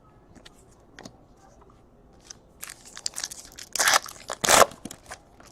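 Trading cards and their packaging being handled: a string of short rustles, crinkles and clicks, with two louder swishes about four seconds in.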